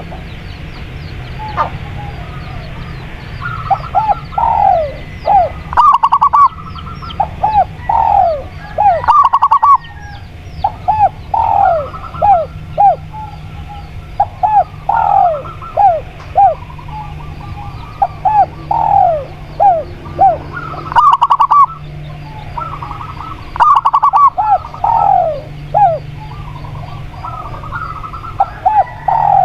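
Doves cooing: repeated phrases of quick, short falling notes, one phrase every two to three seconds, over a steady low hum. A few brief harsh bursts break in, the loudest moments.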